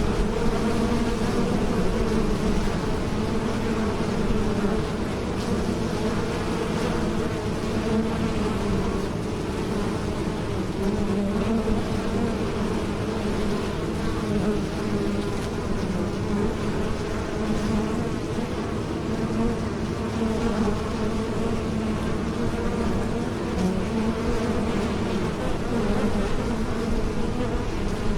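Bees buzzing in flight: a dense, steady drone of many wingbeats, its pitch wavering slightly.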